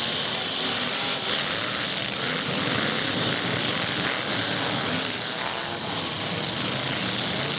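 Many demolition derby truck engines running together in a steady, dense mechanical din.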